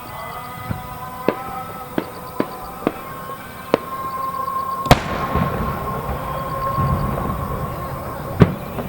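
Aerial firework shells bursting: a string of sharp bangs, the loudest about five seconds in, trailing into a rolling crackle, and one more near the end. Music from loudspeakers plays underneath.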